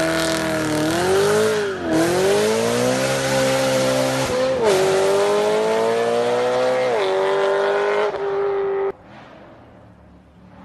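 A car engine at full throttle, revving up through the gears: the pitch climbs, drops at upshifts about two and a half seconds apart, and climbs again. It cuts off suddenly near the end.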